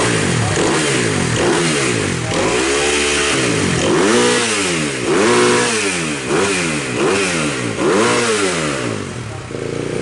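MX2 motocross bikes on track, their engines revving up and falling back again and again as the throttle is opened and shut.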